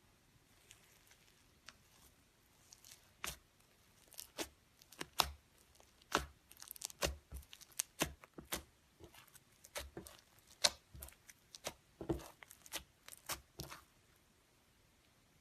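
Slime being pressed and worked by hand, giving irregular sharp crackles and pops that come thick for several seconds and stop near the end.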